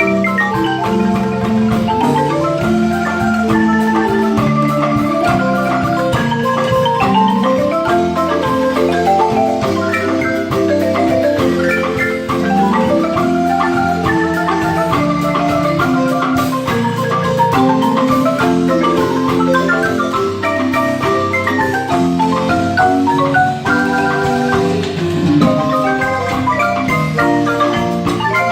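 Marimba ensemble playing a piece, with a quick melody of many struck notes running over held, rolled notes in the bass.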